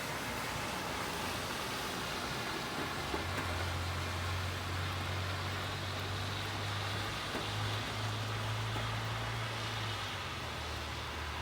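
Steady rain on a city street, with the low drone of a car engine on the road below for several seconds through the middle.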